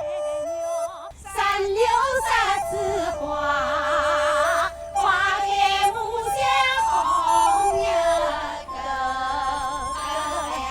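Orchestral music from a symphonic movement: a high melody with wide vibrato over held chords, with a low bass layer coming in about a second in.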